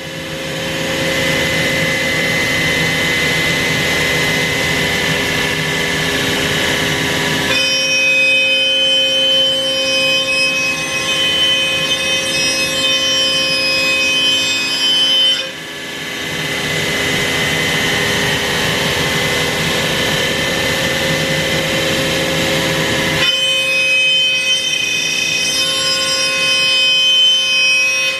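CNC router spindle running and milling a wooden guitar neck: a loud, steady whine made of several high tones. The pitch pattern shifts abruptly every seven or eight seconds, with a brief dip in loudness about halfway through.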